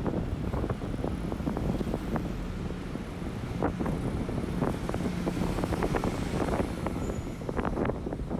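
Strong wind buffeting a phone's microphone: a steady low rumble broken by many short crackling pops.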